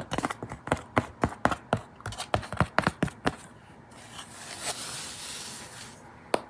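A quick run of sharp clicks, about four to five a second, then a soft scraping hiss lasting about two seconds, and a single click near the end.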